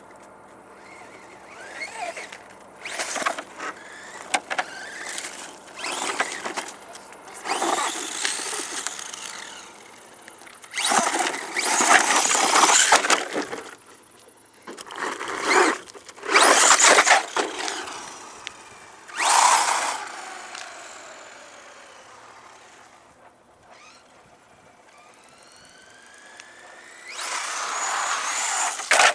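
Brushless electric motor of a HiMOTO radio-controlled monster truck accelerating in repeated short bursts, its whine gliding up and down in pitch, with quieter gaps between runs.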